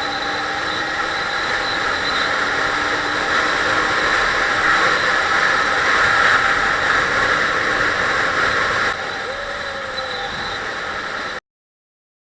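Honda CB250 Hornet's four-cylinder 250cc engine running under way, heard through steady wind noise on the helmet camera. The sound grows slowly louder, drops back about nine seconds in, then cuts off suddenly.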